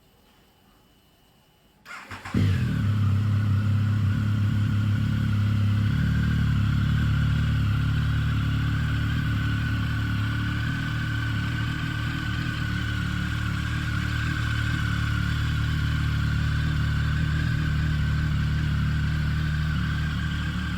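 2009 Triumph Speed Triple 1050's inline-three engine, breathing through Arrow stainless dual exhausts, started from cold. After about two seconds of near silence the starter cranks briefly, the engine catches, and it settles into a steady cold idle with a steady high whine over it.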